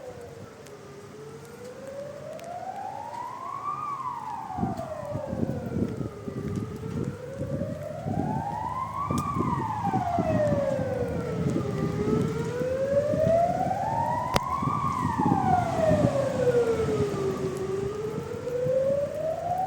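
A siren wailing slowly, its pitch rising and falling in long sweeps about every five and a half seconds and growing louder. From about four seconds in, a low rumbling noise runs under it.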